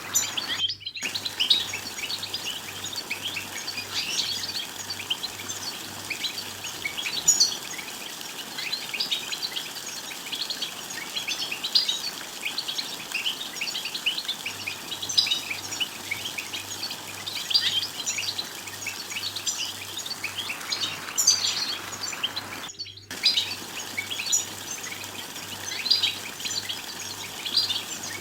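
European goldfinch twittering: a rapid, unbroken stream of short high chirps and trills, the chattering song used to stir caged males to sing. The sound cuts out for a split second twice, once just after the start and once near the end.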